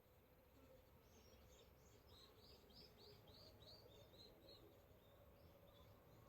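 Faint bird song: a run of about ten short, high, down-slurred notes, roughly three a second, starting about a second in and fading out after about four and a half seconds, over a steady low background hum.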